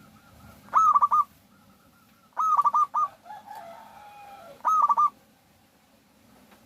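Zebra dove calling: three short bursts of quick stuttering coos, spaced about two seconds apart, with a fainter, lower drawn-out call between the second and third.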